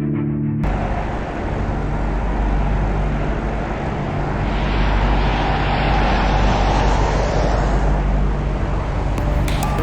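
Airliner on a landing approach: a steady roar of jet engine noise that cuts in about half a second in, swells around the middle and eases near the end, with a few sharp clicks near the end.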